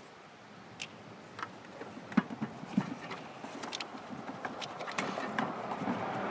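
Scattered light clicks and knocks of an old spark plug wire being pulled off and handled, with a steady noise slowly growing louder toward the end.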